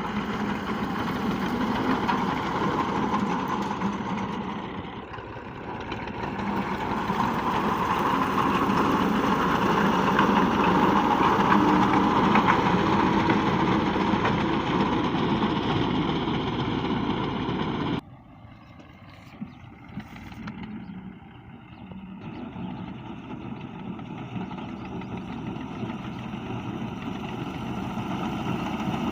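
Old Massey Ferguson tractor engine running steadily with a harvesting reaper, growing louder toward the middle. About two-thirds of the way in the sound drops abruptly to a quieter engine that slowly grows louder again.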